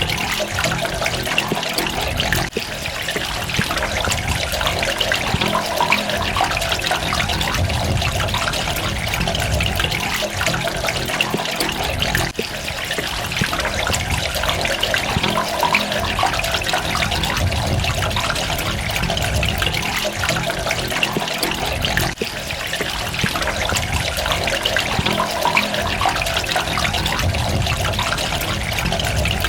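Water trickling and splashing steadily, with a low rumble that swells and fades and a brief dip about every ten seconds.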